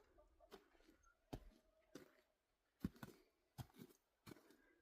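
Near silence with faint footsteps on frozen ground, about one every three quarters of a second.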